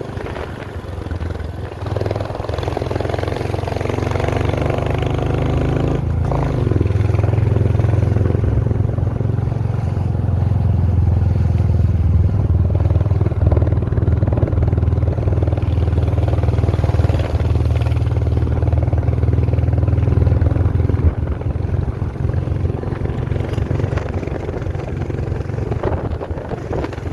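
A motor vehicle's engine running steadily on the move, with a deep hum and road noise. It grows louder over the first several seconds, holds, then eases a little near the end.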